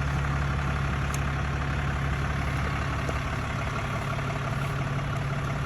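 Pickup truck engine idling steadily, left running with the doors locked and the keys inside. A couple of faint light clicks sound over it.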